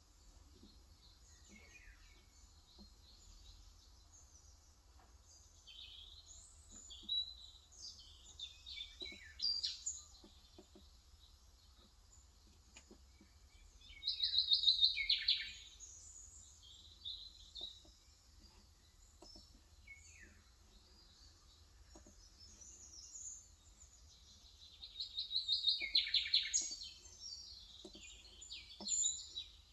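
Birds chirping in several bursts of quick high calls, loudest about halfway through and again near the end, over faint, sparse keystrokes on an electrostatic capacitive (Topre-style) keyboard.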